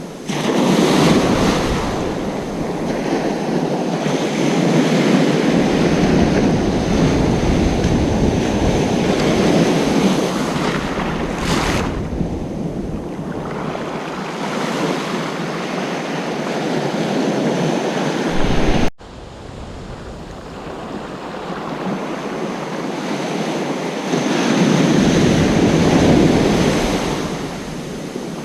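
Ocean surf washing onto a beach, swelling and easing as waves break, with wind rumbling on the microphone. About two-thirds of the way through, the sound drops suddenly to a quieter stretch, then builds again with the next waves.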